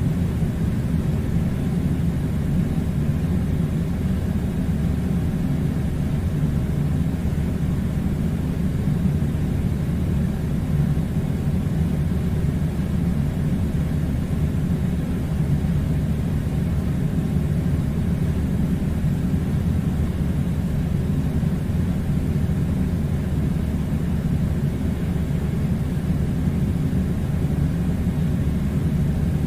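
A steady low mechanical rumble, even and unbroken, with no speech or music over it.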